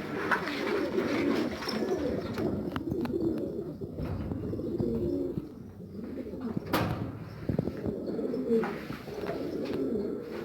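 Domestic pigeons cooing almost without a break, with one sharp click about seven seconds in.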